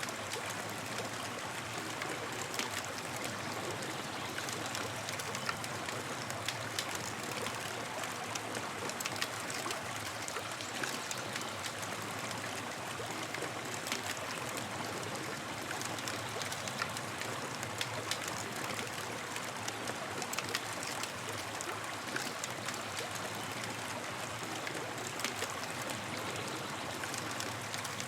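Campfire burning with a steady hiss and frequent small sharp crackles and pops scattered throughout.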